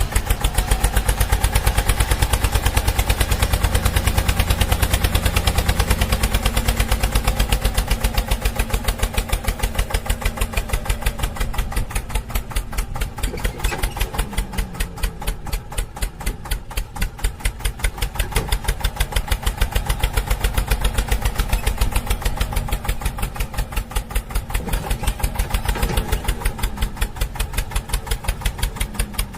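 A steady, rapidly pulsing engine-like sound, about four or five pulses a second, from a cartoon vehicle sound effect, with a few short sliding tones partway through.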